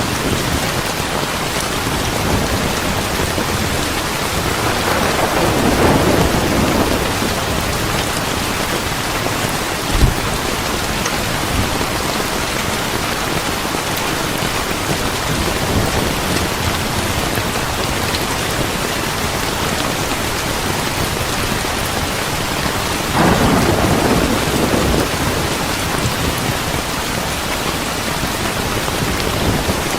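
Steady heavy rain with two long rolls of thunder, one about five seconds in and one just past the twenty-second mark, and a single sharp knock about ten seconds in.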